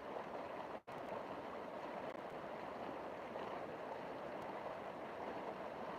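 River water rushing and flowing in a steady, even wash, cut by a split-second dropout a little under a second in.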